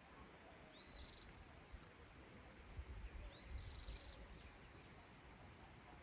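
Faint countryside evening ambience: a steady high insect hiss, with a distant bird giving two short chirping calls, about a second in and again around three and a half seconds. A brief low rumble sits under the second call.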